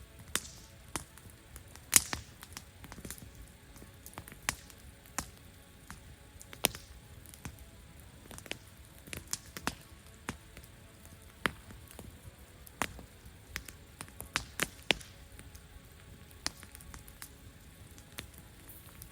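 Wood fire crackling: irregular sharp pops and snaps, a few of them much louder, over a faint steady background.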